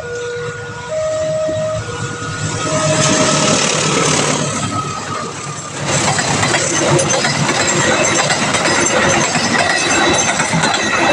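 Level-crossing warning alarm sounding a two-tone electronic signal, switching between a lower and a higher pitch about once a second, for the first few seconds. A train then passes, with loud rushing and clattering of wheels on the rails from about six seconds in that drowns out the alarm.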